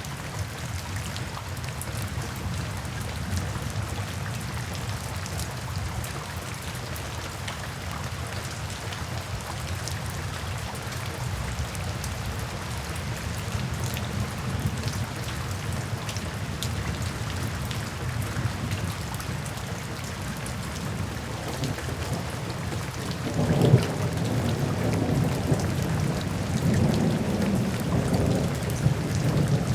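Steady rain with a low rumble of thunder. About three-quarters of the way through, a louder roll of thunder sets in and keeps rolling.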